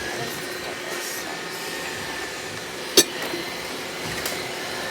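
Robot vacuum cleaner running steadily with a thin whine, and a single sharp click about three seconds in.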